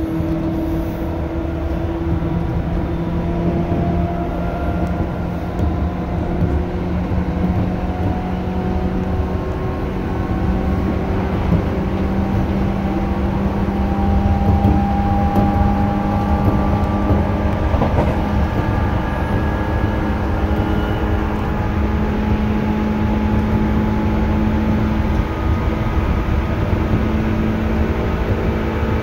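Seibu 2000 series electric train running: a steady low rumble of wheels on rail with a faint motor and gear whine whose pitch creeps slowly upward as the train picks up speed.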